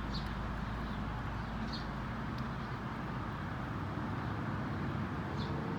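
Outdoor background of steady distant traffic noise, its low rumble fading about two seconds in, with a few faint short high chirps.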